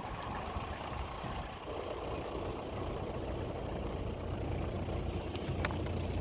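Safari vehicle's engine running as it drives, with a steady rumble, and two brief high-pitched sounds about two seconds and four and a half seconds in.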